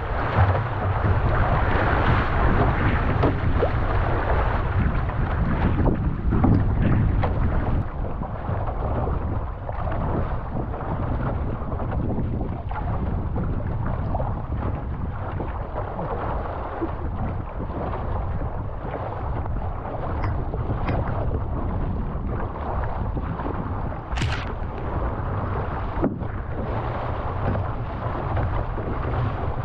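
Wind buffeting the microphone over water rushing along the hull of a canoe being paddled downwind, rougher for the first few seconds. There is one sharp tap near the end.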